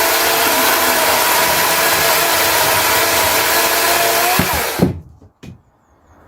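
DeWalt 18-volt cordless electric chainsaw running steadily with a high motor whine, cutting a log; about four and a half seconds in it is released and winds down, with a sharp knock as it stops.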